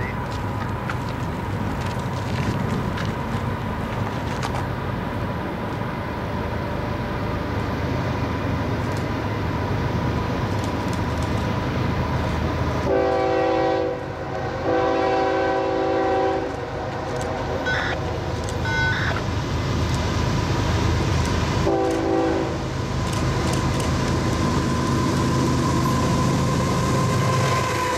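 Diesel-electric freight locomotives approaching, their engines rumbling steadily. The lead locomotive's air horn sounds a chord in two long blasts close together around the middle, then a short blast about six seconds later.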